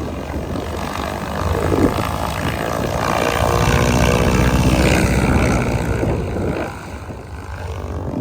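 An aircraft passes overhead. Its engine noise swells to its loudest about four to five seconds in, with a sweeping rise and fall in tone, then fades as it moves away.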